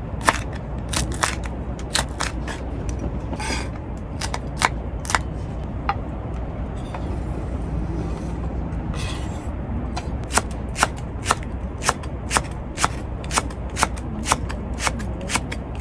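A series of sharp clicks and taps over a steady low rumble. The taps are irregular at first and settle to about two a second in the last several seconds.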